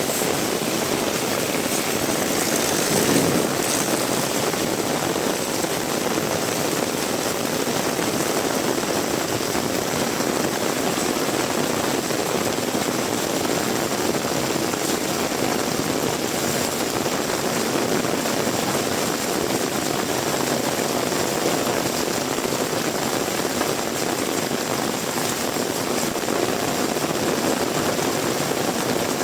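Heavy rain falling steadily, an even hiss and patter, with a brief louder swell about three seconds in.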